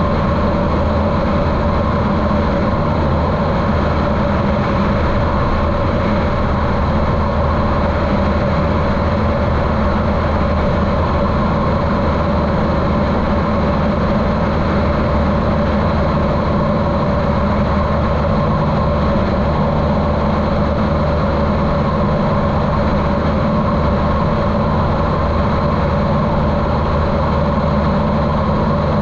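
The Cessna 150L's Continental O-200 four-cylinder air-cooled engine and propeller running steadily. The sound is muffled by the camera's waterproof housing, and the engine sounds healthy.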